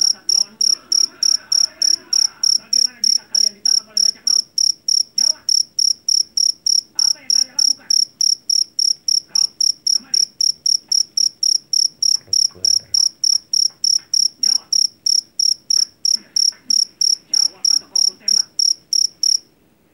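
A jangkrik jeliteng, the Javanese black field cricket, chirping loudly and steadily at about three chirps a second in a high, shrill tone. It stops abruptly just before the end.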